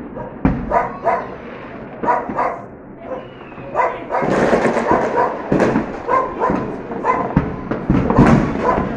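A dog barking over and over in short, sharp barks, with fireworks banging and crackling around it.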